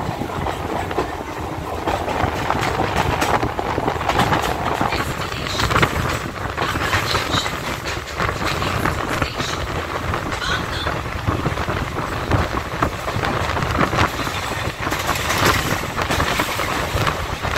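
Electric suburban local train (EMU) running at speed, heard from an open doorway: a steady rumble and rattle of wheels on rail, broken by irregular sharp clacks as the wheels cross rail joints and points.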